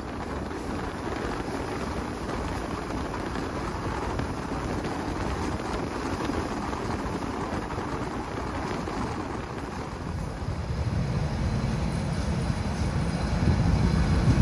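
Passenger train running along the line: steady rumble of wheels on rail, with the air rushing past an open carriage window. It grows louder in the last few seconds.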